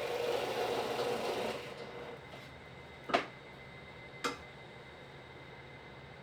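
A small electric power tool's motor runs for about a second and a half, then stops. Two sharp knocks follow, about a second apart.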